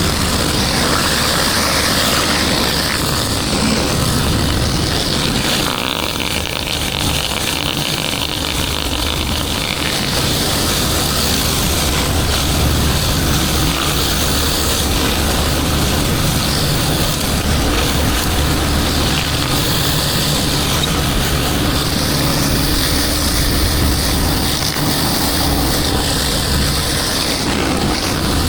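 Pressure washer's engine running steadily under a continuous hiss of high-pressure water spray.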